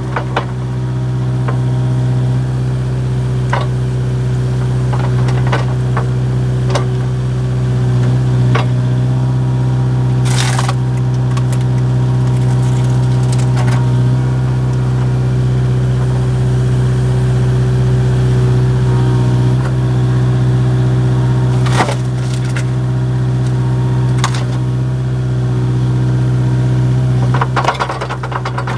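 Kubota excavator's diesel engine running steadily while big log rounds are split, with several sharp cracks and splintering of the wood breaking apart at irregular intervals.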